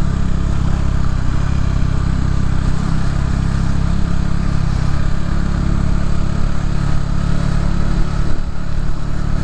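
Motorcycle engine running steadily while cruising at low speed.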